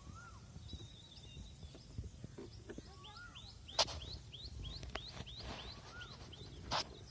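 Birds calling: a run of quick rising chirps, about three a second, and a few slower arching whistles, over a low outdoor rumble. Two sharp cracks stand out, about four seconds in and near the end.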